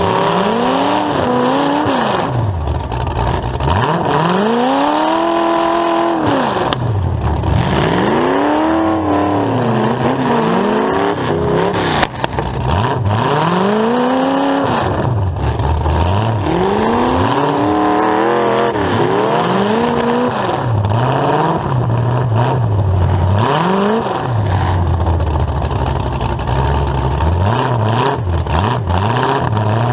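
Demolition derby car's engine, exhausting through two open stacks straight up through the hood, revving up and dropping back again and again every two to three seconds as the car is driven around the arena.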